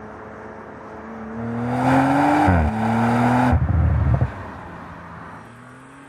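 Audi RS4 Avant's 2.9-litre twin-turbo V6 accelerating hard: the note climbs, drops briefly at an upshift and climbs again, then the throttle closes with a burst of crackling from the RS exhaust before the engine settles to a quieter, steady run.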